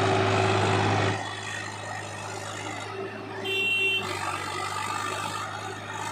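Tractor diesel engine running steadily, louder for the first second. About three and a half seconds in, a short high-pitched tone sounds briefly.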